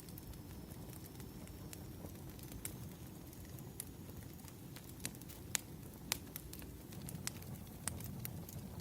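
Burning firewood: a steady low rumble of flames with scattered sharp crackles and pops, two louder pops about five and six seconds in.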